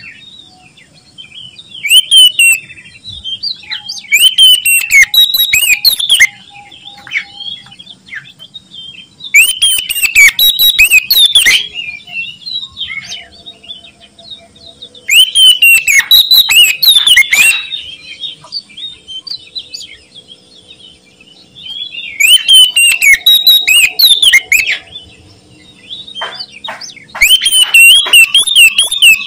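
Oriental magpie-robin (kacer) singing loud, varied whistled phrases full of quick rising and falling notes, in about six bursts of roughly two seconds each, with short pauses between.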